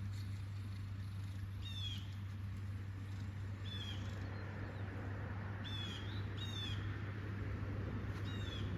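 A bird calling outdoors: about five short, high, downward-sliding calls, one every second or two, over a steady low background hum.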